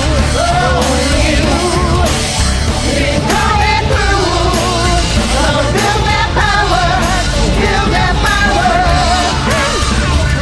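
Karaoke singing: a voice singing over a backing track with a steady beat.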